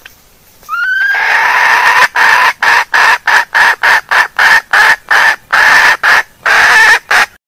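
Female junglefowl calling: a rising note about a second in, then a long run of loud repeated clucks at about two a second, cut off abruptly near the end.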